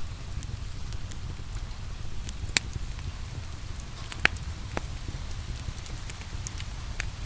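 Wood fire crackling with scattered sharp pops, two of them louder, about a third of the way and just past halfway through. Under it run a low steady rumble and the even hiss of rain.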